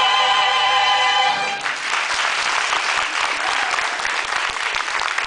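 A singer's final held note, with vibrato, closes a musical-theatre number and cuts off about a second and a half in. Audience applause follows.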